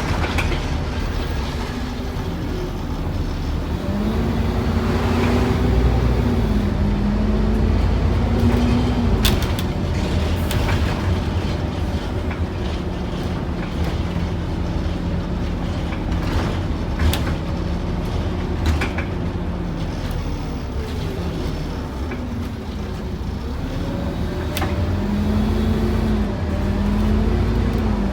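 Scania N230UD OmniCity double-decker bus heard from inside while under way: its five-cylinder diesel pulls up in pitch with stepped changes at about four to nine seconds in, holds steady, eases down a little after twenty seconds and climbs again near the end. Scattered sharp knocks and rattles sound over the engine.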